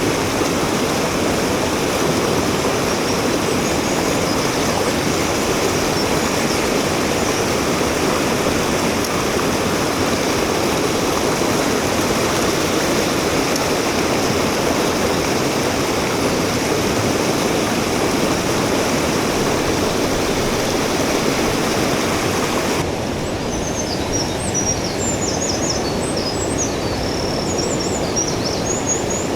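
Mountain stream water rushing steadily. About 23 seconds in, the hiss turns abruptly softer in the high range, and short high chirps sound over it near the end.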